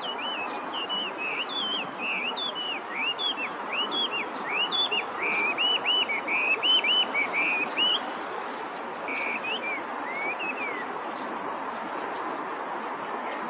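Chinese hwamei singing a loud run of varied whistled phrases, repeating each note several times before moving to the next. The song breaks off about eight seconds in, returns with a few notes, then stops, over steady background noise.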